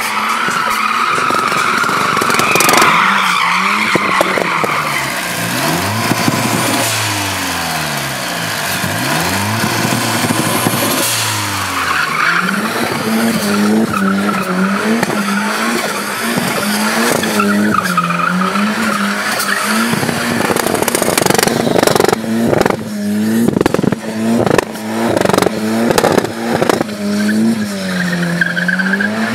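Swapped turbocharged 2.3-litre M111 four-cylinder in a Mercedes CLK W209, its revs rising and falling over and over while the tyres squeal in a drift and burnout. In the second half, repeated sharp bangs from the exhaust cut through the bouncing revs.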